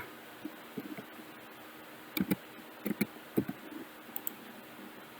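About half a dozen short, sharp clicks, some in quick pairs, between two and four and a half seconds in, over faint room noise.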